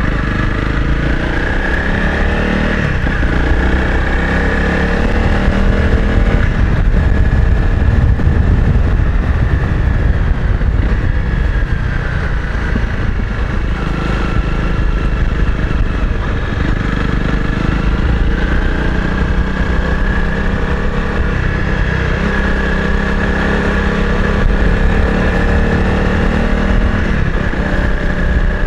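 Honda CRF 250 Rally's single-cylinder engine running steadily while the bike is ridden at low speed. The engine note shifts pitch a few times with the throttle.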